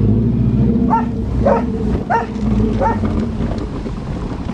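A dog barking four times in short, quick yelps over the steady low hum of a Subaru Legacy's engine running.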